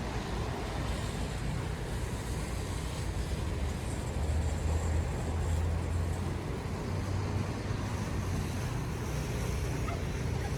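City street traffic: a steady road noise with a vehicle's low engine rumble passing by, loudest about four to six seconds in.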